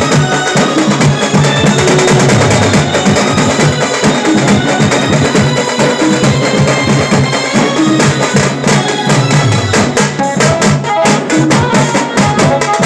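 Tasa band playing: fast, dense stick strokes on tasa drums with bass drum beats, and a pitched tune with a low bass line playing along.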